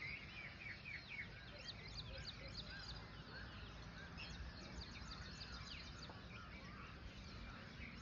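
Several small birds chirping and twittering in quick, overlapping short calls, over a faint steady low rumble.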